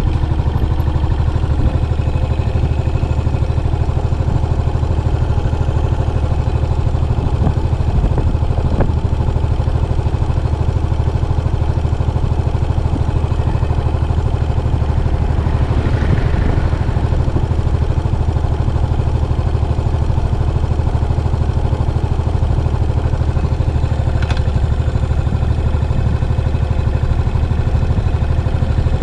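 Yamaha SR400's air-cooled single-cylinder engine running steadily through its stock muffler, a strong low pulse at an even level. A brief swell of noise about halfway through.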